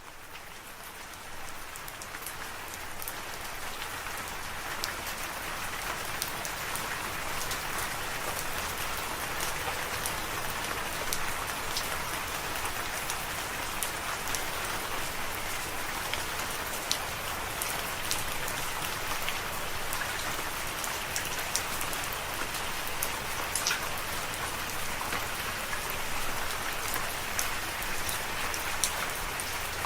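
Steady rain falling, with individual drops ticking sharply on a hard surface. The rain swells up from quiet over the first couple of seconds, then holds even.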